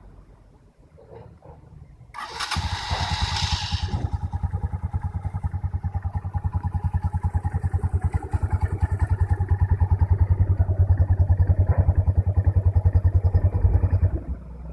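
Motorcycle engine starting about two seconds in with a short, noisy burst as it catches, then idling with an even pulsing beat that grows a little louder, and stopping abruptly near the end.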